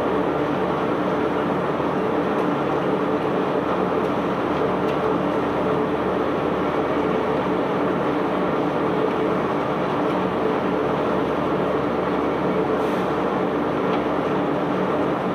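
Heavy unloading machinery running with a steady drone, a few constant low tones over an even mechanical rumble.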